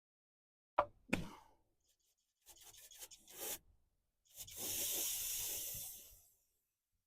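Metal parts knocking twice, then grime being scraped, then a steady hiss of about two seconds, as rust and caked grease are cleaned off a van's ABS sensor and wheel spindle.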